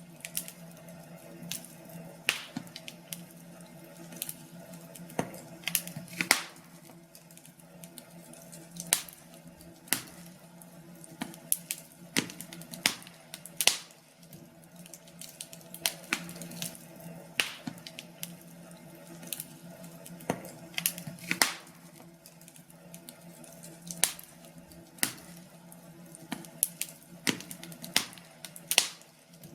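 Log fire crackling, with irregular sharp pops of varying loudness over a steady low hum.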